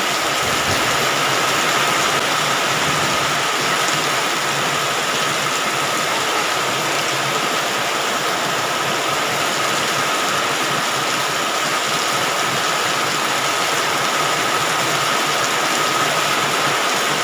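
Heavy rain falling, a steady, even hiss with a faint high whine running through it.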